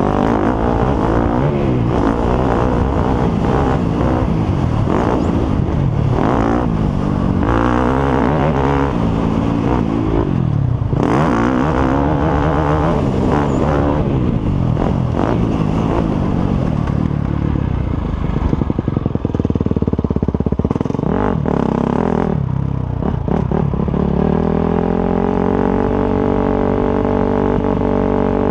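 Motocross motorcycle engines revving up and down over and over as the bikes ride. Near the end one engine settles into a steadier, held pitch.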